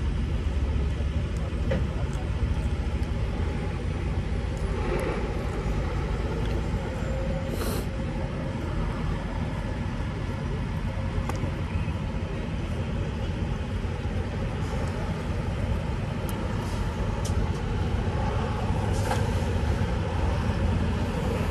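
Semi truck's diesel engine running with a steady low rumble; a brief high hiss comes about eight seconds in.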